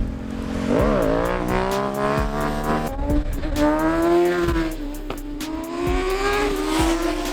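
Sport motorcycle engines at high revs, the pitch climbing over the first few seconds and then easing off as the bikes accelerate past.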